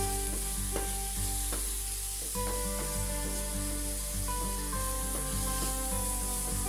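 String beans, okra and pork sizzling as they stir-fry in a metal wok.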